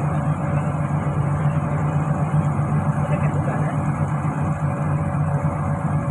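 An engine running steadily at a constant speed: a continuous low hum with an even tone that neither rises nor falls.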